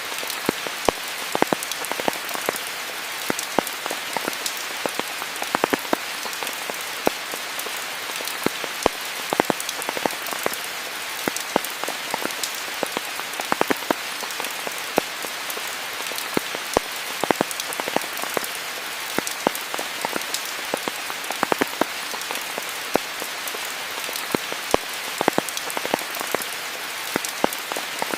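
Steady rain falling, a constant hiss with many close, distinct drops pattering onto surfaces.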